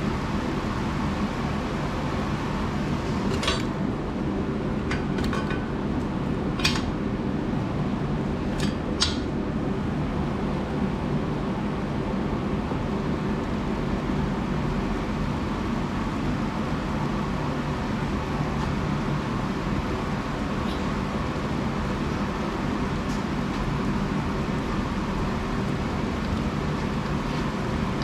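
Steady mechanical hum from a running machine, with about five light metallic clinks in the first ten seconds, as of steel pieces being handled.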